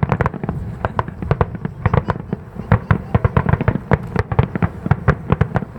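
Aerial fireworks bursting in a dense finale barrage: a rapid, uneven string of sharp bangs, several a second, overlapping one another.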